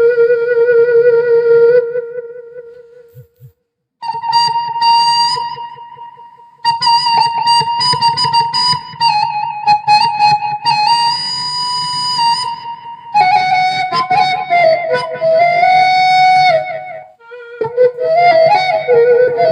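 Sundanese suling bamboo flute playing a slow melody of held, wavering notes in phrases, with plucked strings underneath in the kacapi suling style. A long held note ends about two seconds in, and after a pause of about two seconds the playing resumes in phrases. These break briefly about two-thirds of the way through and again near the end.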